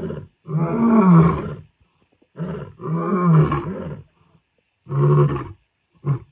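Lion roaring in a series of deep calls, each rising and then falling in pitch, with short gaps between them. The later calls are shorter, ending in a brief grunt.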